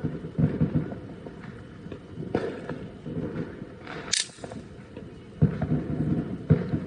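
Consumer fireworks going off: a run of irregular pops and thumps, with one sharp crack about four seconds in.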